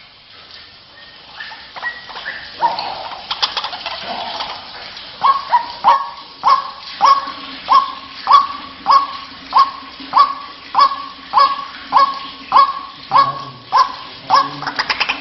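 White-breasted waterhen calling: after a few irregular notes, a steady series of loud, sharp 'ruak' calls starts about five seconds in and repeats roughly every 0.6 seconds.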